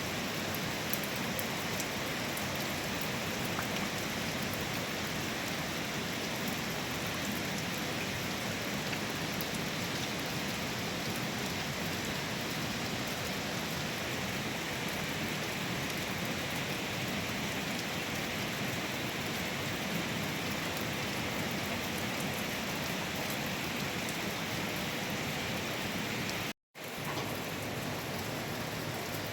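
Steady rain falling, an even hiss flecked with fine drop ticks. The sound cuts out briefly near the end.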